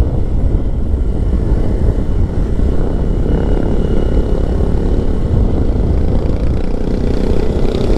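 Keeway 152 motorcycle running steadily on the road, its engine and wind rumble on the rider's microphone making a loud, even low noise.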